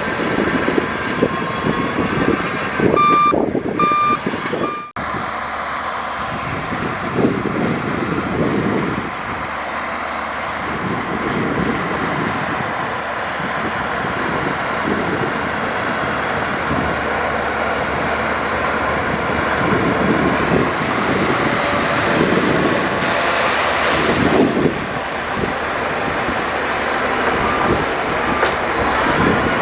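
Heavy diesel earthmoving machinery, a dump truck and a bulldozer, running under load. A reversing alarm beeps three times a few seconds in and again faintly near the end. A rush of hissing noise swells for a few seconds past the middle.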